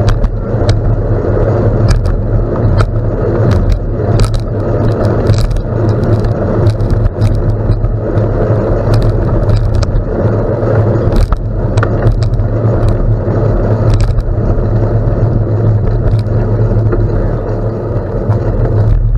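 Gravel bike rolling along a gravel road: steady rumble of tyres and wind, with frequent sharp clicks and rattles from stones and the bike.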